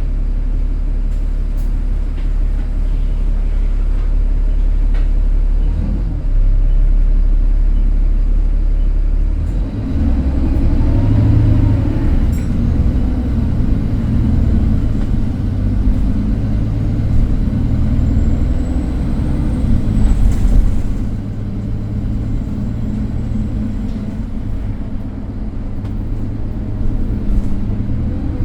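Inside an ADL Enviro300 single-decker bus: the engine runs with a steady low drone, then about ten seconds in it revs up with a rising whine and a heavier rumble as the bus pulls away. Short rattles from the bus body come through now and then.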